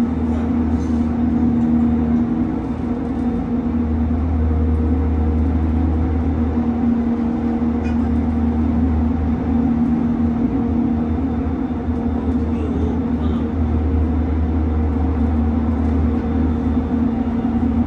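Running noise heard inside an electric commuter train car travelling at speed: a steady low rumble with a constant hum.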